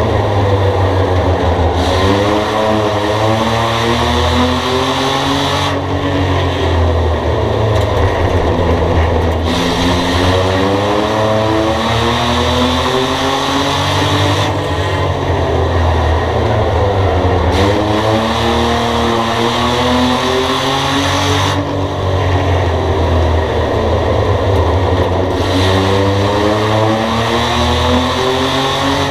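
Race car engine at racing speed, its pitch climbing as it accelerates and dropping as it lets off, over and over, with a steady low rumble underneath.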